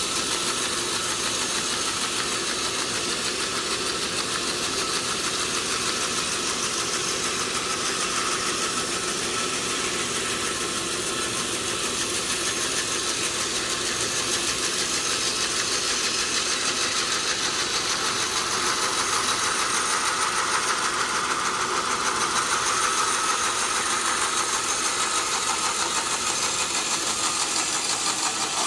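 Sawmill saw running through a teak log: a steady machine drone with a strong high hiss, swelling a little about two-thirds of the way through.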